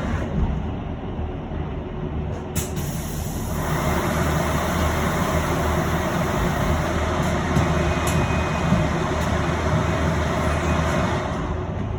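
Ride noise inside an electric bus: a steady low rumble, with a broad rushing noise that switches on about three and a half seconds in and cuts off sharply near the end.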